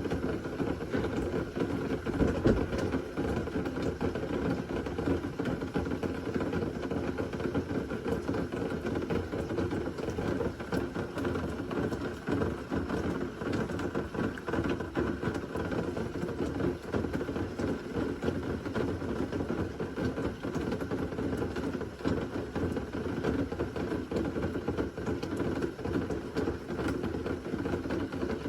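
Rain falling steadily, an even rushing noise dotted with faint drop ticks.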